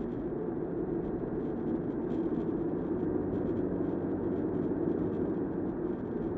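Steady rumble of a car driving, road and engine noise heard inside the cabin, with no clear changes.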